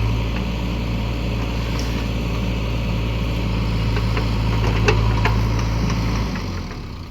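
Diesel engine of heavy earthmoving machinery running steadily, with a few sharp knocks about five seconds in; the engine then drops in speed and level near the end.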